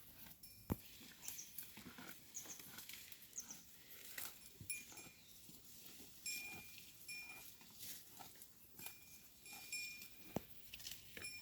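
Faint scattered rustling and clicks with a few sharper knocks, and short high-pitched chirps that repeat several times, each a fraction of a second long.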